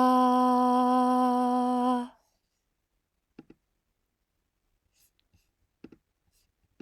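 A woman's voice humming one steady sustained note for about two seconds, recorded as a self-made sample, then a few faint clicks.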